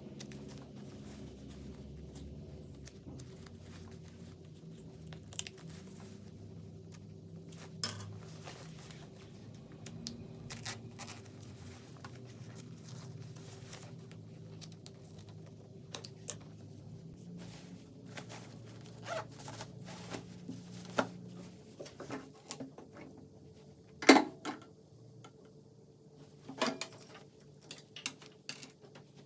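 Scattered small clicks and taps of sewing tools and fabric being handled during a garment repair, one louder click about three-quarters of the way through, over a steady low hum.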